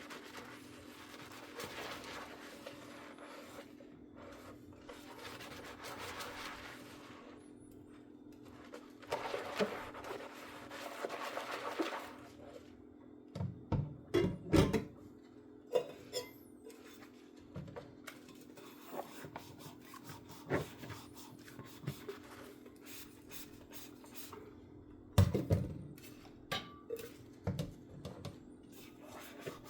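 Dishes being hand-washed at a sink. A sponge scrubs in several stretches of repeated strokes, then dishes knock and clink against each other, with the loudest clinks about halfway through and again near the end.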